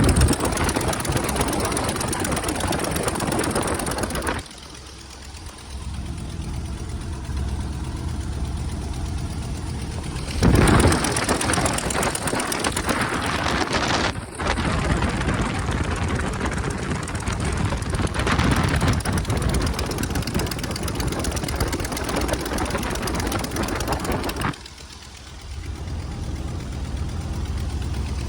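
Ryan PT-22's Kinner five-cylinder radial engine running at low speed just after starting. Its level drops and jumps abruptly several times.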